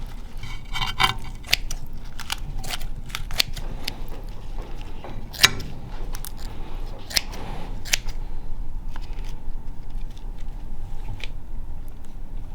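Irregular sharp clicks and snips of hand work with tools or utensils, over a steady low hum.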